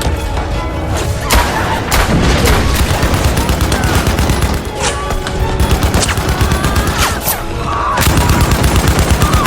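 Battle sound effects of massed rifle and machine-gun fire, a steady stream of shots with a dense, fast machine-gun rhythm that gets louder about eight seconds in.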